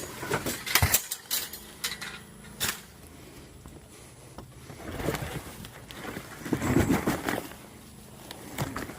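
Household junk being handled and moved: a few sharp knocks and clatters in the first three seconds, then a longer stretch of scraping and rustling from about five to seven and a half seconds in.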